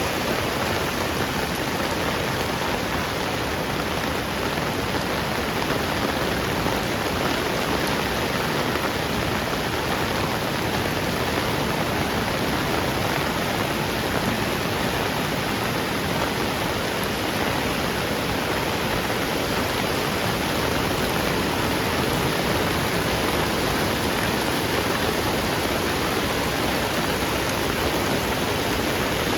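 Heavy rain falling steadily, a dense even hiss that stays at one level throughout.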